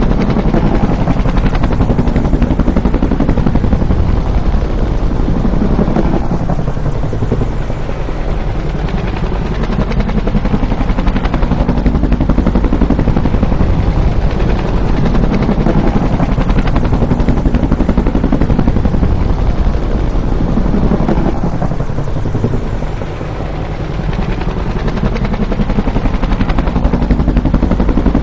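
Bell UH-1 "Huey" helicopter running close by, its main rotor beating in a fast, even chop over the engine noise. The sound eases off briefly twice and swells back up.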